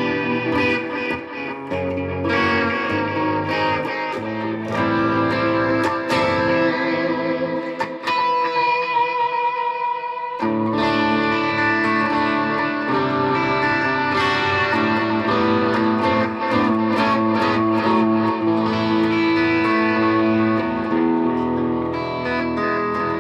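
Electric guitar, a Stratocaster through a Fender Mustang GTX100 amp on its Super Echo preset, playing ringing chords with a lush echo. About eight seconds in the low notes drop away, leaving a single high note; full chords come back about ten and a half seconds in.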